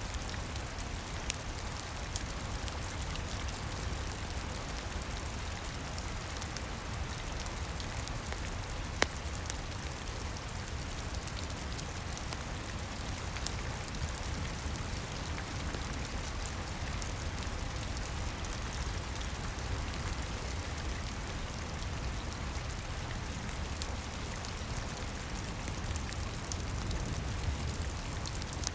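Steady rain falling, mixed with a crackling log fire: a low rumble under the rain and a few sharp crackles, the loudest pop about nine seconds in.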